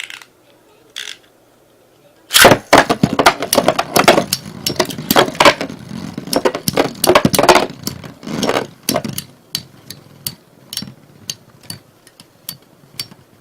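Two metal Beyblade spinning tops, Lightning L-Drago and Storm Capricorn, are launched into a plastic stadium about two seconds in. For several seconds they clash in a dense run of sharp clicks and rattling knocks. The hits then thin out into occasional separate ticks as the tops slow.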